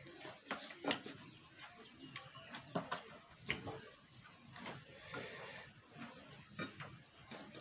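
Close-up eating sounds: wet chewing and lip smacking with irregular mouth clicks. The sharpest smacks come about a second in and around three seconds in.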